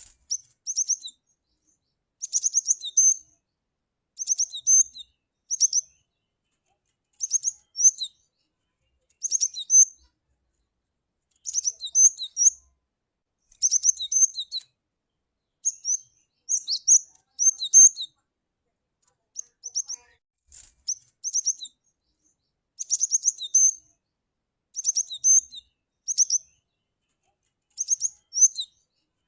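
Cinereous tit (gelatik batu) calling: short phrases of quick, high chirping notes, each ending in a couple of lower notes, repeated about every two seconds with clean silence between.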